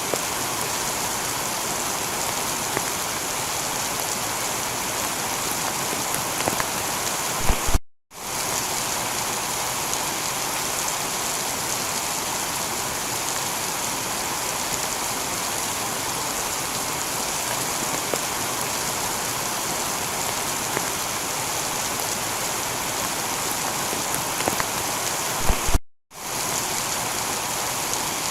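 Heavy rain falling steadily on a tiled roof, an even dense hiss of drops. Twice, about a third of the way in and again near the end, a few sharp ticks are followed by a split-second cut to silence before the rain resumes.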